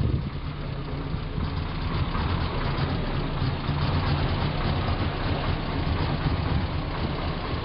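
Land Rover Series III engine idling steadily.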